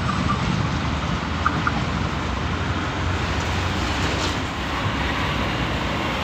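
Freight train of covered wagons rolling away along the track: a steady rumble of steel wheels on the rails. Two short high notes sound about a second and a half in.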